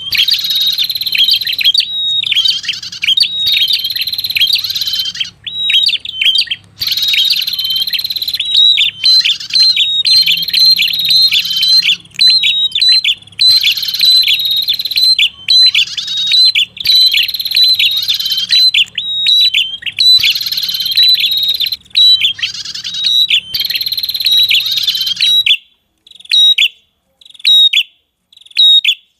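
Prenjak kepala merah lure call: a fast, near-continuous chatter of sharp high notes, many sweeping downward, broken by short pauses. A low hum underneath stops about 25 seconds in, and after that the calls come in short separate bursts.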